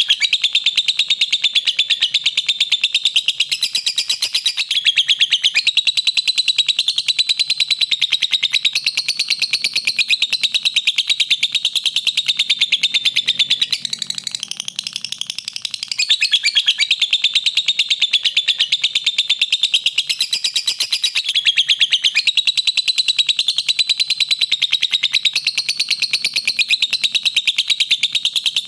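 Lovebird singing a long, very rapid, unbroken chattering song of high chirps, easing briefly about halfway through before carrying on.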